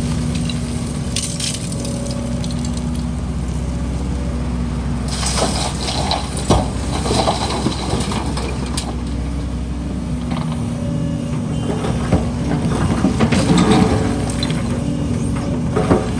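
Heavy diesel excavator running steadily while it works, with irregular clattering and crunching of concrete rubble, most busily from about five to nine seconds in and again around twelve to fourteen seconds.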